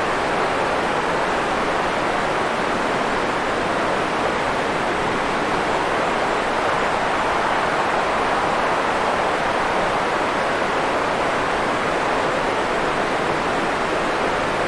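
Steady white noise, a constant even hiss centred in the middle range, without any change.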